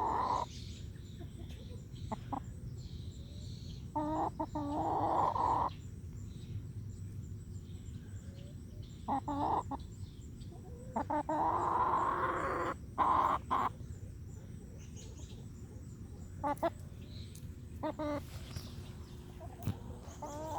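Hens clucking and calling in bursts every few seconds, the longest a drawn-out call of about two seconds just past the middle.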